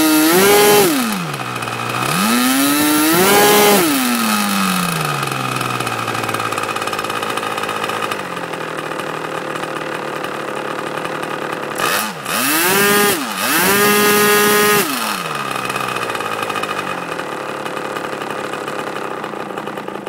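Moki 61 LS two-stroke glow engine turning an APC 11x9 propeller through a Jett muffler. It is throttled up to full speed and back down three times: right at the start, around three seconds in, and from about 12 to 15 s. Between these it idles steadily. The rises and falls are clean, with no stumbling.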